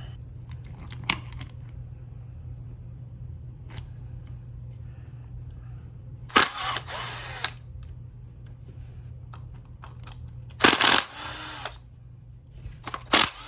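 Cordless drill-driver whirring in three short bursts of about a second each, backing bolts out of a model truck's transmission case, with a sharp click about a second in.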